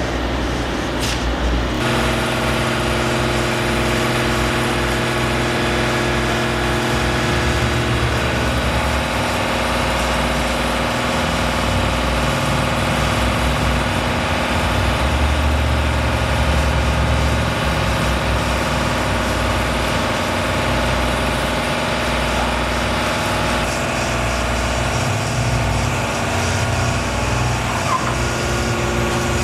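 A heavy engine running steadily, its tone shifting a few times.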